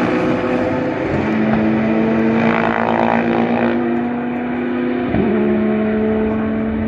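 GT race car engines running at a steady pitch, with a louder car passing about two and a half seconds in and a short dip in engine pitch near the five-second mark.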